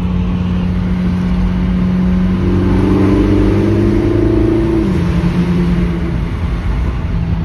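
VW Jetta 1.4T's turbocharged four-cylinder engine pulling under acceleration, heard from inside the cabin. Its note rises steadily, drops abruptly about five seconds in, then runs on at a lower pitch.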